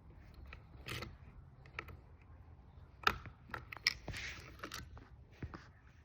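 Irregular mechanical clicks and knocks, with a brief rasp about four seconds in, from an ATV during a start attempt; the engine does not fire or run.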